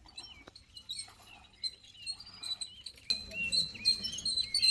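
Birds chirping: many short, high calls overlapping, getting busier and louder about three seconds in.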